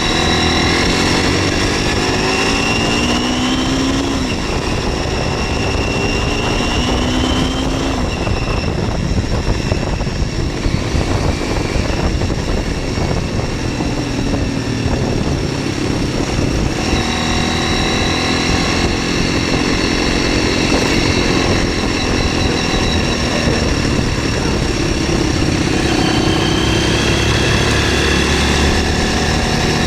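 MZ 125 SX single-cylinder four-stroke engine under way on the road: it pulls up in pitch through the gears with drops at the shifts, eases off about a third of the way in, then picks up again and holds a fairly steady pitch to the end.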